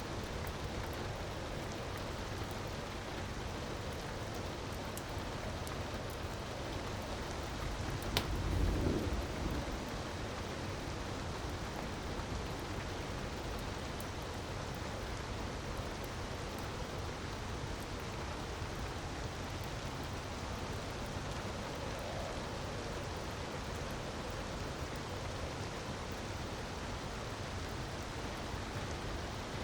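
Steady rushing noise of falling water with faint crackles of a wood fire. About eight seconds in, a sharp crack and a low rumble lasting a second or so.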